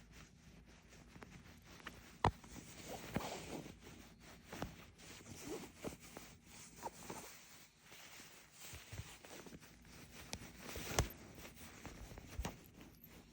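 Bed covers rustling and scraping in irregular bursts as a kitten scrambles and pounces at toes moving beneath them, with a couple of sharp clicks.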